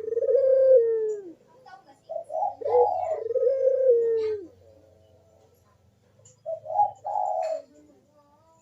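Ringneck dove (burung puter) cooing in repeated phrases. One phrase is already under way at the start, a second follows about two seconds in, and a shorter third comes near the end, each closing on a falling note.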